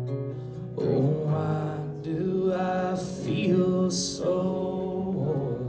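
Male voice singing a slow, wordless closing melody over a ringing acoustic guitar chord at the end of a live country song.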